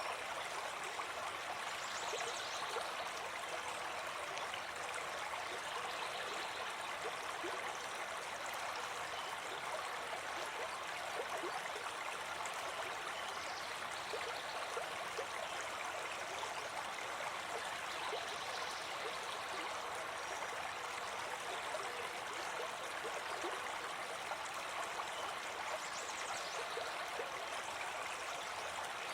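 A brook babbling steadily, an even rush of running water.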